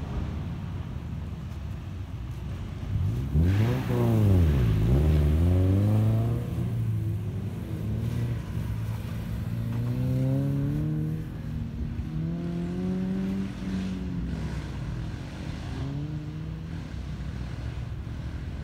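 Rallycross car's engine passing close by about four seconds in, then revving up and easing off again and again as it drives around a dirt course, its pitch climbing four or five times.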